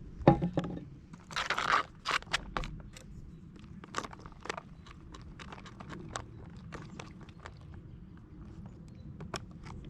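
Clicks, knocks and a short rustle, like small items being handled, with the loudest knock just after the start and the rustle about a second and a half in.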